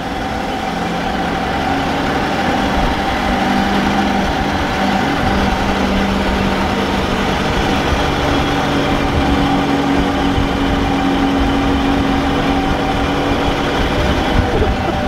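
Restored Willys Jeep's engine running steadily as the Jeep is driven, its pitch shifting slightly partway through. The engine is not yet up to full power, which the owners put down to timing or too much air and not enough fuel.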